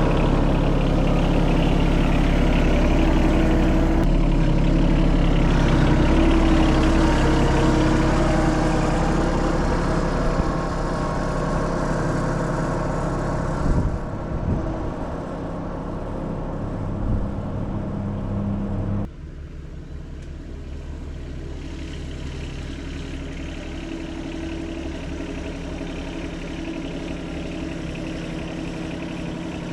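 Three-cylinder diesel engine of a Yanmar SA221 sub-compact tractor running steadily. About two-thirds of the way through its sound drops suddenly, and it runs on more quietly.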